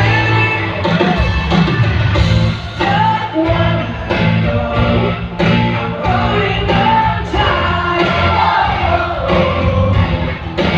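Rock band playing: a male lead voice sings and shouts over guitar, bass and drums keeping a steady beat.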